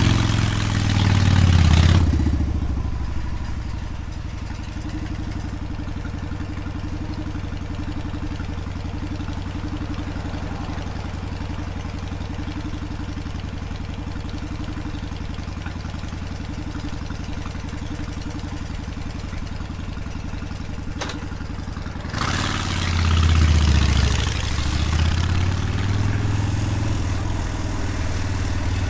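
Motorcycle engine idling steadily. It revs briefly at the start and again about 22 seconds in, pitch rising and falling, then keeps running at a higher, uneven note toward the end.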